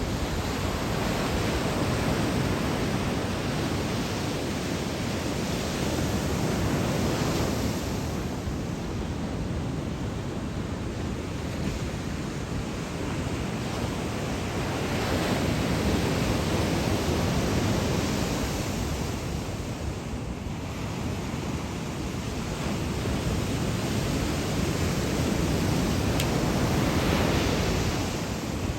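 Typhoon-driven surf breaking on a sandy beach: a steady wash of whitewater that swells and eases every several seconds as sets come in.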